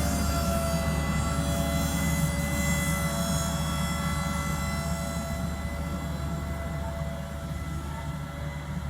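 Large farm tractor's engine running steadily, a deep rumble with a high whine over it, gradually growing fainter.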